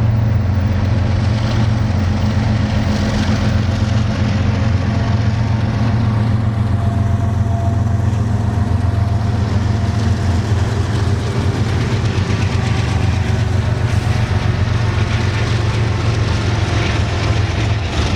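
A motor vehicle engine idling: a steady, unchanging low hum.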